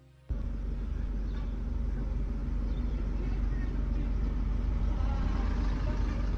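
Steady low rumble of a car's running engine heard from inside the car's cabin, with faint street noise; it starts abruptly about a third of a second in.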